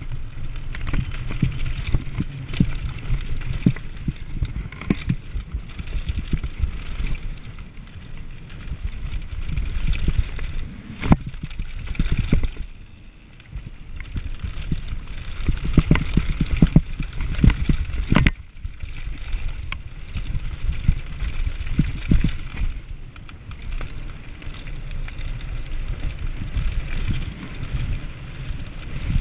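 Mountain bike descending a rough downhill trail: tyres rolling over dirt and stones with a steady low rumble, broken by frequent knocks and rattles as the bike hits bumps. The noise eases briefly about halfway through.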